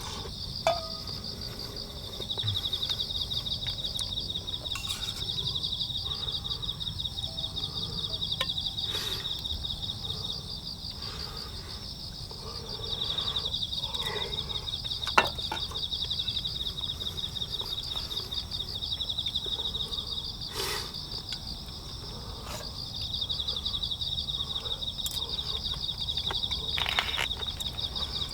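Insects trilling, two rapid pulsing trills at slightly different pitches. The lower trill stops and restarts twice. A few sharp single clicks, one about halfway through.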